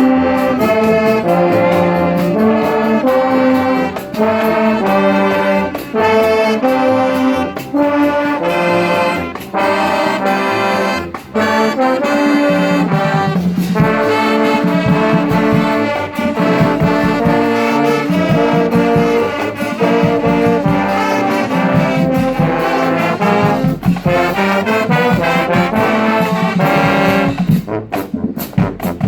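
Marching band playing a tune, with trombones and trumpets carrying the melody over a steady drum beat.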